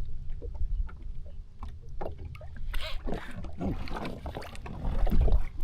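Water lapping and splashing around a drifting jet ski, with low rumble and scattered knocks against the hull. A faint steady hum runs through the first half.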